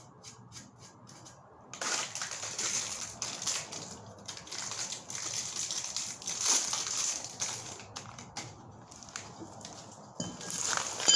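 Irregular crackling and scraping handling noise that starts about two seconds in, made up of many small sharp strokes.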